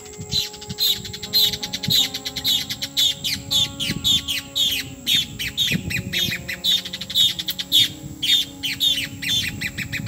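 A bird calling loudly and insistently: a rapid series of short, wavering high calls, about three a second, that stops suddenly near the end.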